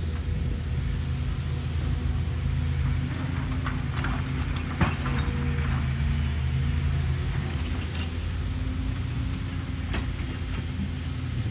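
Caterpillar excavator's diesel engine running steadily, with a few sharp metallic clanks from the machine at work, the loudest about five seconds in.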